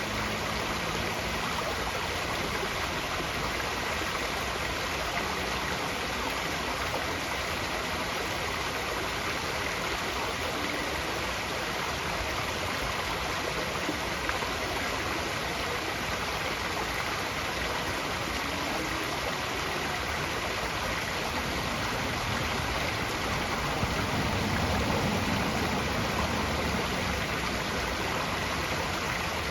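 Steady rush of flowing water, even and unbroken, with a faint steady high tone above it.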